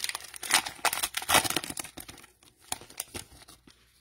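Cellophane wrapper of an NBA Optic cello pack of trading cards crinkling and tearing as it is ripped open, in quick dense crackles that thin out to a few scattered crackles toward the end.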